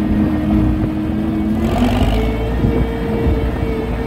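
Farm tractor engine running steadily under the microphone, with a steady whine that steps up in pitch about halfway through.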